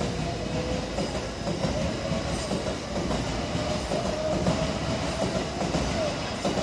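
Electric commuter train passing close by, wheels clattering over the rails, with a steady whine that rises slightly in pitch.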